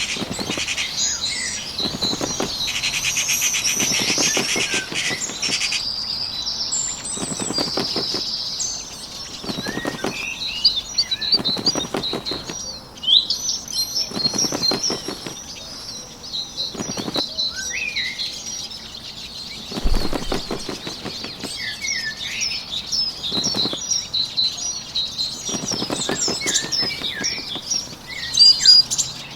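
Bird wings flapping in short bursts that come every second or two, over a steady chorus of many small birds chirping.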